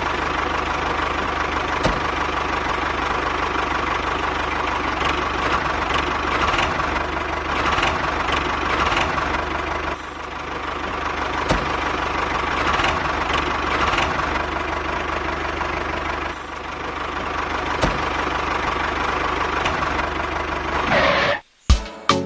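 A motor or engine running steadily with a constant hum and a steady whine, with occasional light clicks. It cuts off suddenly about a second before the end, followed by a few sharp clicks.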